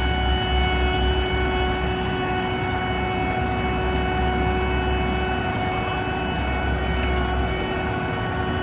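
Heavy diesel paving machinery running steadily: a deep engine rumble with a constant high whine above it, the rumble falling off near the end.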